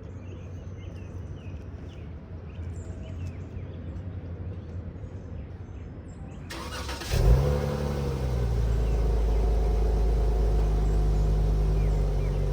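Dodge Challenger SXT's V6, still on its stock mufflers, warm-started: after several seconds of low background rumble the starter cranks briefly about six and a half seconds in, the engine catches with a short rev flare, then settles into a steady idle.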